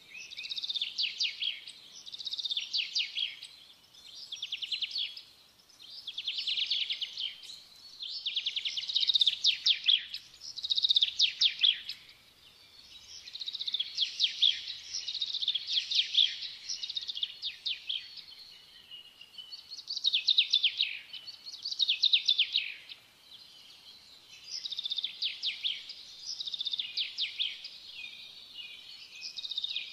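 Songbird singing: trilling phrases of rapid high chirps, one about every two seconds, with a few short pauses.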